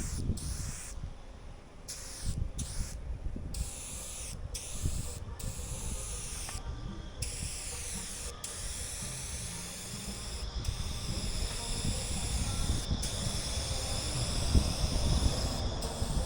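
Wide-pattern aerosol spray paint can spraying in hissing passes. Several short bursts with pauses come in the first seven seconds or so, then longer, nearly continuous spraying broken by a few brief stops. A low rumble runs underneath.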